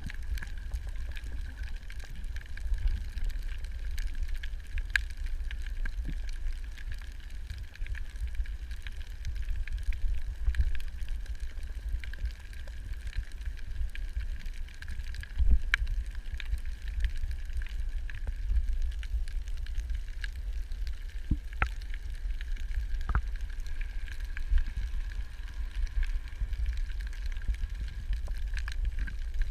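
Underwater ambience picked up by a camera: a steady low rumble with a constant mid-pitched hum over it, and scattered sharp clicks and ticks throughout.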